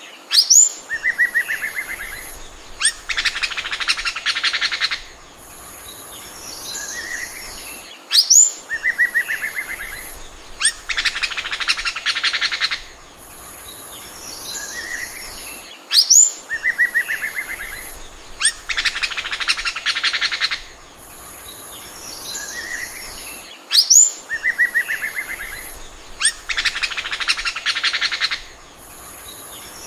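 Oriental magpie-robin song: a sharp rising whistle, a short trill, then a dense run of rapid chattering notes lasting about two seconds and a few softer notes. The same phrase repeats about every eight seconds, four times.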